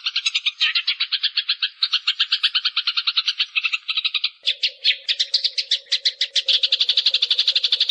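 Eurasian tree sparrow chirping in a fast, tight, unbroken run of short notes, about a dozen a second, as used in a birdkeepers' tutor recording. A steady low hum joins about four and a half seconds in.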